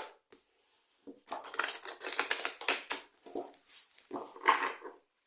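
A deck of oracle cards being shuffled by hand: a quick run of papery flicks and clicks, starting about a second in and stopping shortly before the end.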